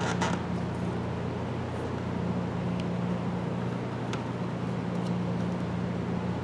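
A steady low hum, with a few faint, scattered clicks of plastic door-panel retaining clips being worked loose with a clip puller.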